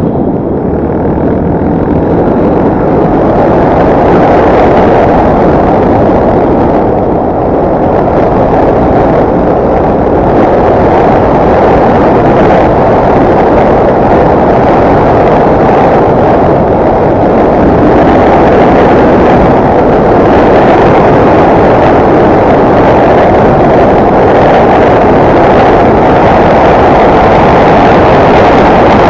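Enduro motorcycle engine running under way, a loud, steady, dense roar that builds over the first few seconds and then holds with little change in pitch.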